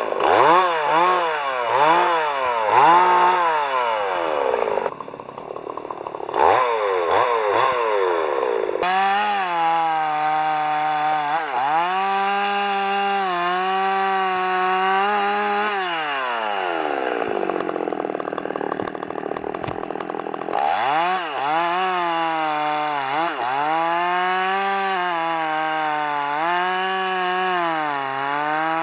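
Chainsaw engine blipped up and down in quick revs at first, then held at high revs with a wavering pitch, as when cutting through wood. Around the middle it winds down for a few seconds, then revs up again and holds high for the rest.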